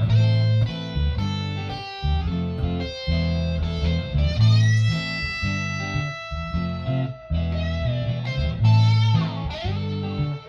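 Electric guitar playing a shuffle over a repeating low bass line. It plays single notes and short phrases, holds one long note for a couple of seconds midway, and slides in pitch about nine seconds in.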